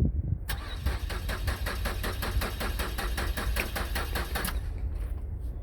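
2008 Ford Fusion engine being cranked by its starter, turning over in an even rhythm of about six or seven pulses a second for about four seconds without firing, then stopping: a crank-no-start condition.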